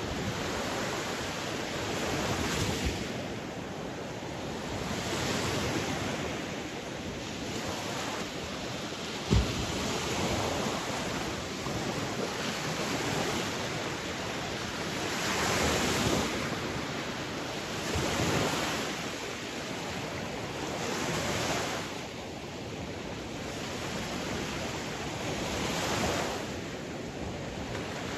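Sea waves washing on a shore, the surf swelling and falling back every few seconds, with a short thump about nine seconds in.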